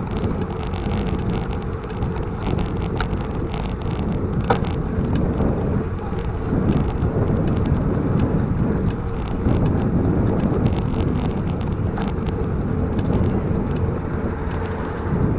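Wind rushing over the microphone of a moving bicycle, with tyre and road noise and frequent small clicks and rattles from the bike.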